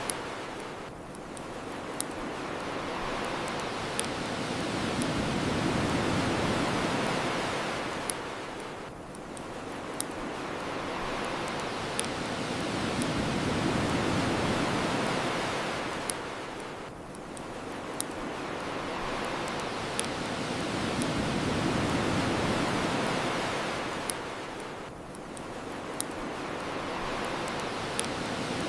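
Ocean waves washing onto the shore, the surf swelling and falling back about every eight seconds, with sharp single pops from a crackling bonfire about every two seconds.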